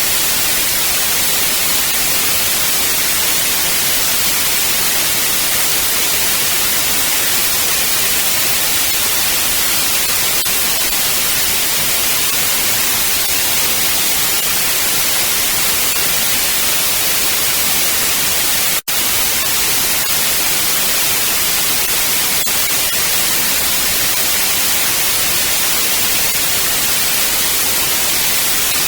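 White noise test tone: a steady, loud, even hiss across the whole audible range, broken by a split-second dropout about two-thirds of the way through.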